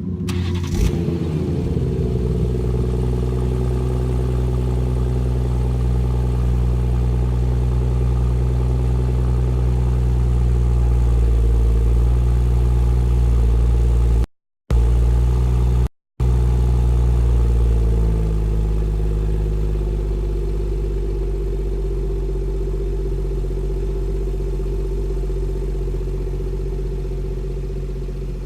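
BMW 440i's 3.0-litre turbocharged inline-six with its stock exhaust, starting with a sharp crack about a second in and settling into a steady, loud idle. About 18 seconds in, the idle steps down and quietens. The sound cuts out briefly twice midway.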